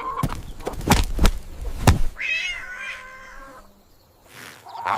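Several sharp knocks in the first two seconds, then a cat meows once, drawn out for about a second.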